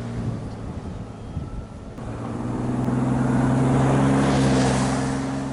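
2004 Ford Sport Trac's 4.0 L V6 running through its old, rusted stock muffler and side exhaust: a steady low engine drone that swells louder about halfway through, then eases off.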